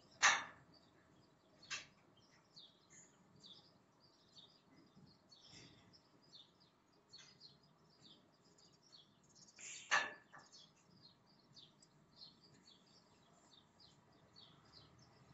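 Faint, frequent chirps of small birds. A couple of short, louder noises cut across them, one just after the start and one about ten seconds in.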